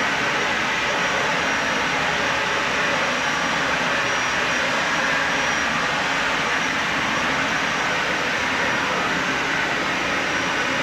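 Dyson Ball Animal 3 upright vacuum cleaner running steadily on carpet: a constant rush of motor and airflow with a faint high whine over it.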